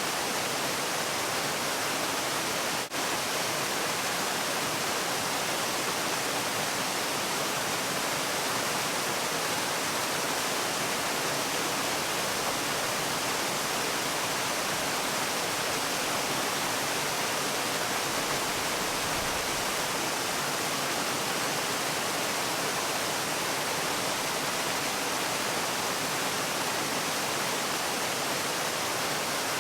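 Waterfall: steady, unbroken rush of falling water, with one brief dip in level about three seconds in.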